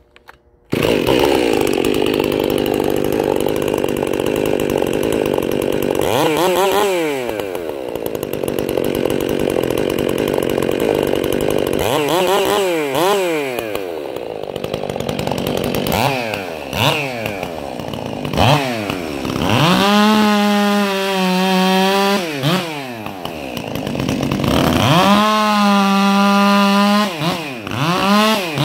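Stihl MS 400 two-stroke chainsaw engine fitted with a prototype muffler. It comes in suddenly under a second in and runs, revved up and back down several times. Near the end it is held at high revs twice, for about two seconds each.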